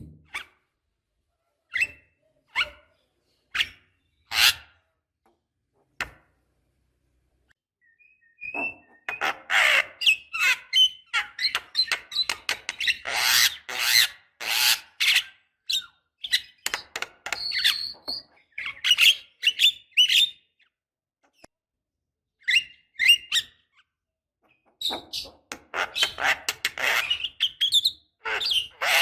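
Javan myna calling: a few short separate calls, then long runs of rapid chattering calls, broken by pauses.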